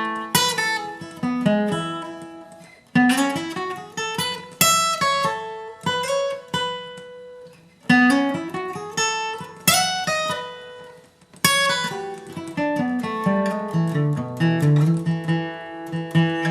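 Acoustic guitar playing a bluegrass lead line: single picked notes, with several notes slid up into about 3, 8 and 11 seconds in, and fuller strummed chords near the end.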